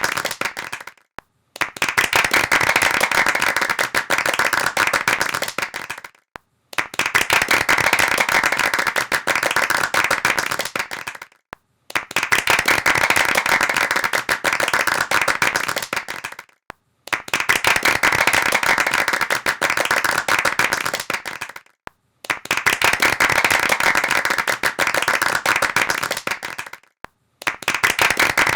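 Hands clapping rapidly in bursts of about four and a half seconds, each broken off by a short silence of about half a second before the next begins, five full bursts in a row.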